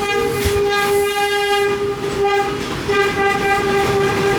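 Vintage New York subway train's horn sounding in long, steady blasts, broken briefly twice.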